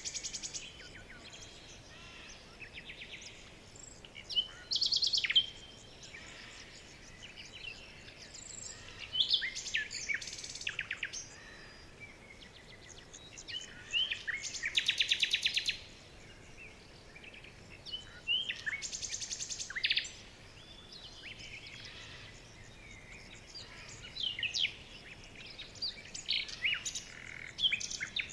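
Songbirds singing: phrases of quick downward-sweeping notes and rapid trills, repeated about every four to five seconds over a faint steady background hiss.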